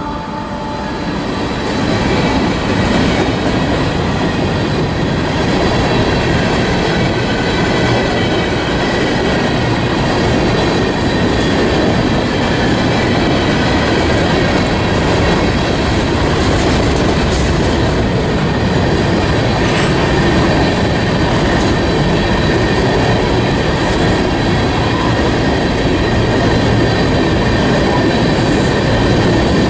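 Freight train of covered hopper cars rolling past, a steady loud rumble and clatter of steel wheels on the rails with a faint high wheel squeal over it.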